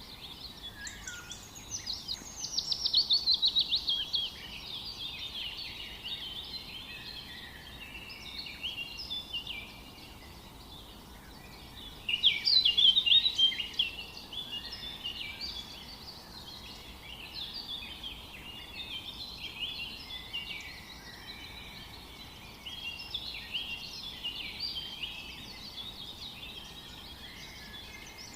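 A chorus of several songbirds singing at once, with a steady stream of chirps and trills over a faint hiss. Two louder rapid trilling songs stand out, at about 2 to 4 seconds and again at about 12 to 14 seconds.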